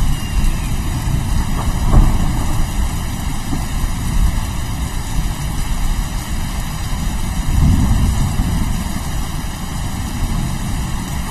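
Steady heavy rain with low rolling thunder underneath, the rumble swelling briefly about two seconds in and again for a second or so near the eight-second mark.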